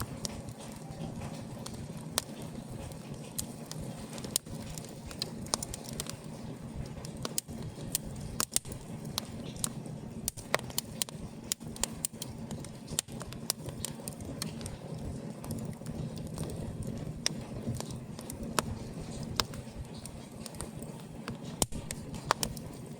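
Wood fire burning in an open fireplace, crackling with irregular sharp pops and snaps over a steady low rush.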